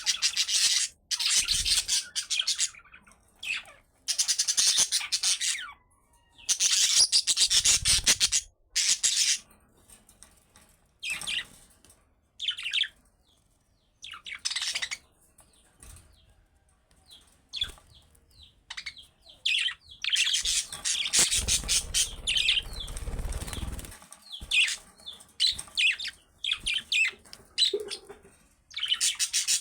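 Budgerigars chattering and warbling in quick, scratchy bursts of a second or two, with short gaps and single chirps in between.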